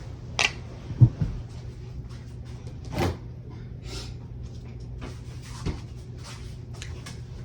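Scattered knocks and clatters of things being handled, the loudest a low thump about a second in, over a steady low hum.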